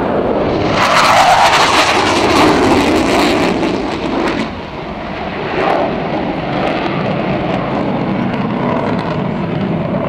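Panavia Tornado GR4 jet making a fast low pass, its twin RB199 turbofan engines swelling loudly about a second in with a falling pitch as it goes by. A second, smaller swell follows near six seconds, then a steady jet rumble.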